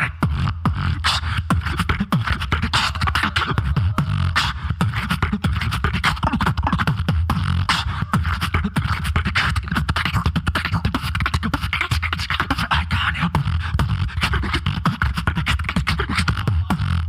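Solo human beatboxing through a microphone and PA: a fast, dense run of vocal clicks and snares over a continuous deep bass.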